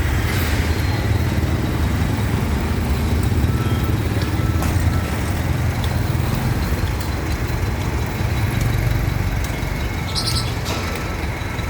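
A heavy vehicle's engine running steadily at low revs, with city street traffic around it. There are a few faint short beeps about three to five seconds in and again near the end.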